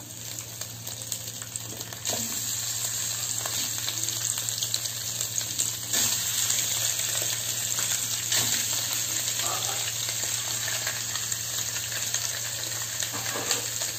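Cubes of boiled spleen sizzling as they are put into hot fat in a stainless steel pot. The frying gets louder about two seconds in, as more pieces go in, with a few knocks of pieces against the pot.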